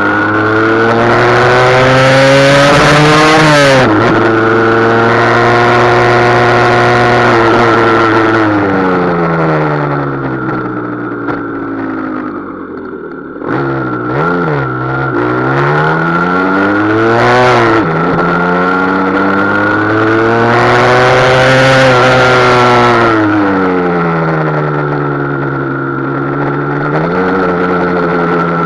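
Husqvarna SM 125's two-stroke single-cylinder engine running hard on a ride, its exhaust restrictors cut out. The pitch climbs under acceleration and drops sharply at gear changes about 4 and 17 seconds in. It eases off in the middle, then picks up again near the end.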